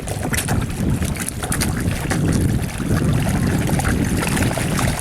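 Wind buffeting the microphone in a steady low rumble, over water with many short, scattered splashes as carp feed on bread at the surface.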